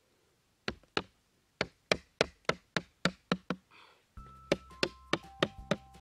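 Sharp wooden knocks as a machete blade strikes the top of a wooden stake, driving it into the ground, about three to four blows a second. Background music comes in about four seconds in.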